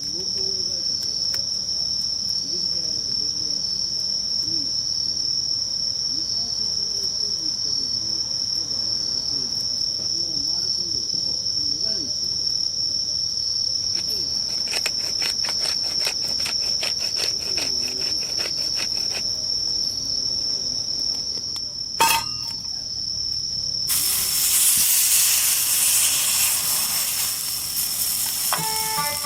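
An insect trills steadily at a high pitch, with faint crackles in the middle. About two-thirds of the way through there is a sharp knock, followed by a loud sizzling hiss. Guitar music comes in at the very end.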